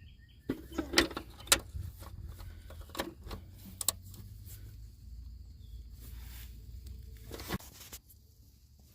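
Scattered metallic clicks and knocks of a ratchet and socket working loose a car's oil pan drain plug, over a low steady rumble.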